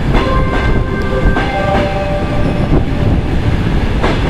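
Passenger train arriving slowly behind an EP1M electric locomotive: steady rumble of the coaches with wheels clicking over rail joints, and several brief steady squealing tones at different pitches as it slows.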